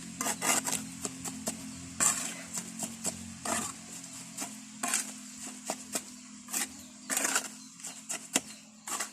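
Sand and cement being mixed by hand, a tool scraping and grinding through the gritty mix in irregular strokes.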